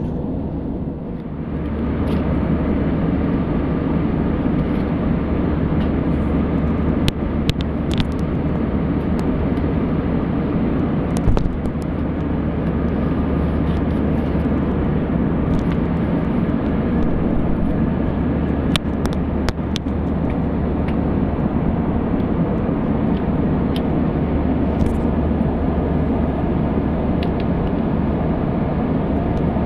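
Steady engine and air noise inside an airliner cabin in flight, a little louder from about two seconds in, with a few faint clicks.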